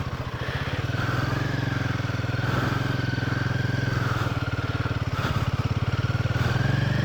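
Motorcycle engine running at low speed as the bike crawls through loose, powdery dirt, its firing pulses steady, with a slight rise in engine level about a second in.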